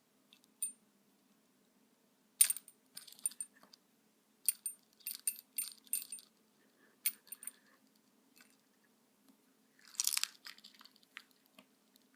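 A budgie pecking and nibbling at things on a table: irregular sharp beak taps and clicks, with a short crunchy scrape about ten seconds in.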